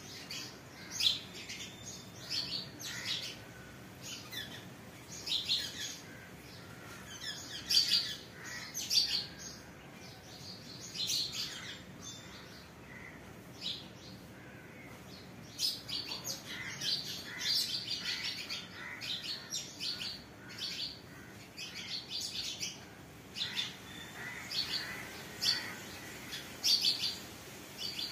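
Birds chirping: short, high chirps and brief trills coming in irregular clusters every second or so, over a faint steady background hiss.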